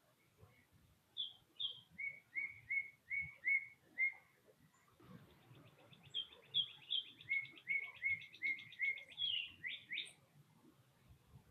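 Songbird singing: two high whistled notes, then a run of repeated lower whistled notes about three a second. In the second half a rapid trill runs behind another run of repeated notes.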